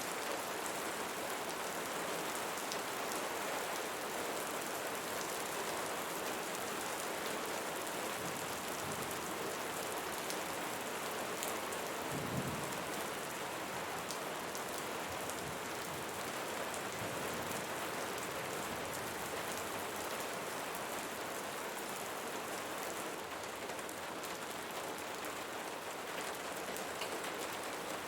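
Steady rainfall: a dense, even hiss of drops hitting surfaces, with one brief low thump about halfway through.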